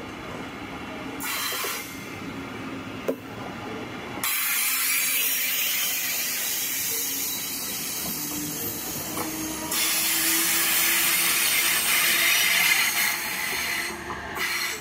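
A metronom double-deck regional train, hauled by an electric locomotive, pulling out and rolling past. It makes a steady hissing rush that grows much louder about four seconds in and again after ten seconds, with a faint hum rising in pitch and then holding steady.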